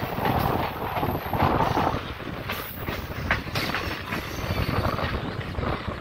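Indian Railways passenger coach running along the track, heard from its open doorway: a steady rumble with the wheels clicking and clattering over the rails.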